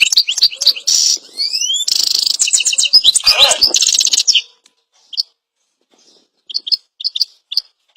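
A bird chirping and warbling in rapid, dense runs of high whistles and chirps, with a brief lower squawk in the middle. The warbling breaks off about halfway through, and after a short gap single short chirps follow about every half second.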